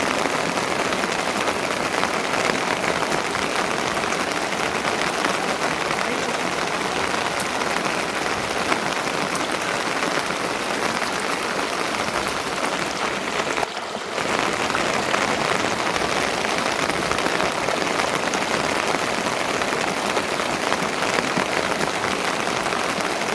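Rain falling steadily, a dense hiss of drops that dips briefly about fourteen seconds in.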